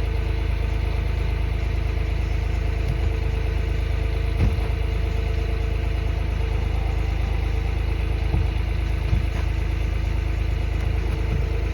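An engine idling steadily, with a few short knocks over it, the loudest about halfway through.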